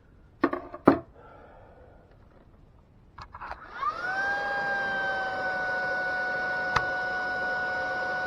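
Two sharp knocks, then a few clicks about three seconds in, and a VAX vacuum cleaner switches on: its motor whine rises quickly and settles into a steady high whine, with one sharp click near the end. It is a test run of the hood after its melted brush-bearing housing was cleaned of built-up hair and the bearing lubricated.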